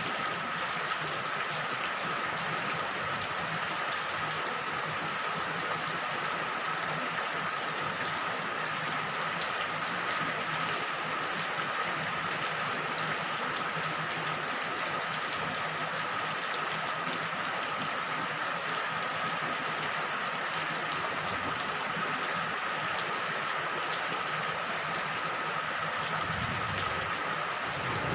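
Steady rain falling, an even continuous hiss. Near the end a low rumble of thunder starts to build.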